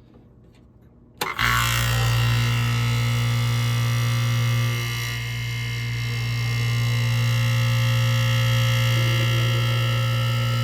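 1984 Carrier Sierra window air conditioner starting up about a second in with a loud, steady electrical hum and buzz. The level dips briefly around five seconds in, then holds.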